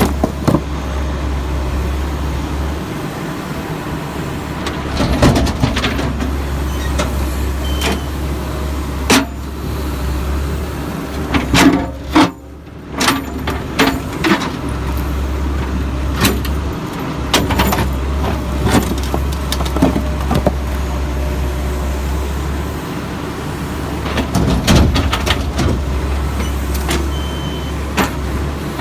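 Diesel backhoe engine running steadily under repeated loud clanks and crashes as broken concrete chunks and the steel bucket strike, loading a dump truck.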